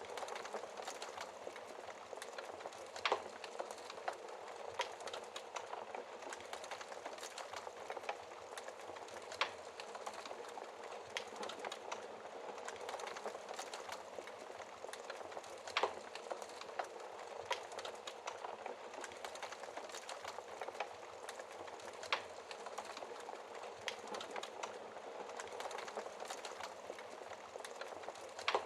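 Wood fire crackling behind a glass fire screen: a steady hiss with constant small snaps, and a louder pop about every six seconds.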